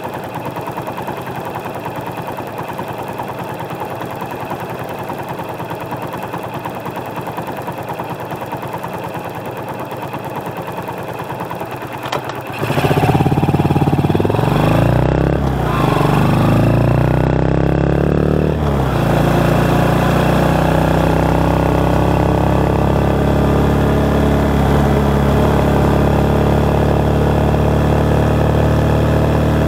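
Motorcycle engine idling, then about twelve seconds in growing louder as the bike pulls away, its pitch rising and falling several times through the gear changes before it settles into a steady run at road speed. Recorded through a microphone under the seat, which keeps wind noise low.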